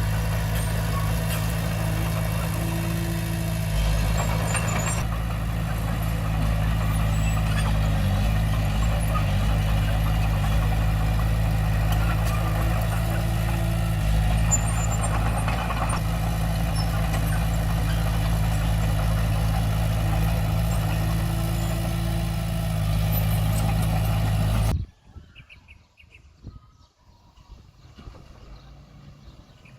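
Komatsu D20P bulldozer's diesel engine running steadily with a low hum. It cuts off abruptly about 25 seconds in, leaving only faint background sounds.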